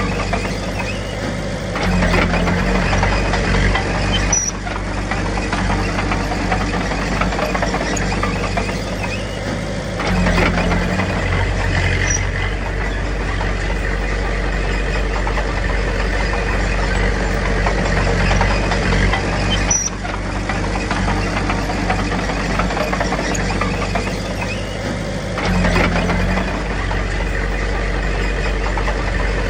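Diesel engine of a small Komatsu D21P crawler bulldozer working under varying load, its note swelling and easing every several seconds.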